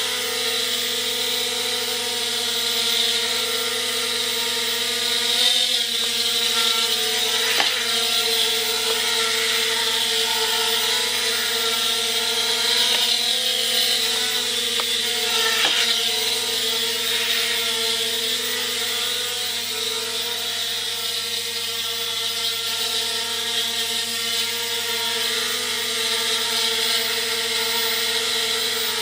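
Palm-sized toy quadcopter's four tiny propellers and motors whining steadily in flight, with a few brief clicks along the way.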